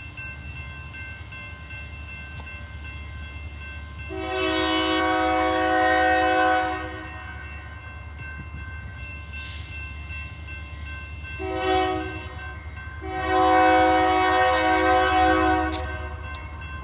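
CSX double-stack container freight train rolling past with a steady low rumble. Its locomotive's multi-chime air horn sounds a long blast about four seconds in, a short blast later, then another long blast. A grade-crossing bell rings steadily underneath.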